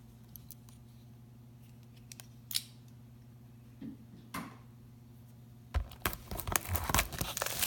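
Plastic shrink-wrap being cut and pulled off a cardboard trading-card box: a few scattered scrapes and swishes, then dense crinkling of the plastic over the last two seconds.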